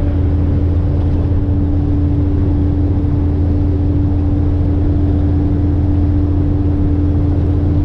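Cummins N14 diesel engine of a dump truck running steadily on the road: an even, unchanging low drone with a constant hum over it.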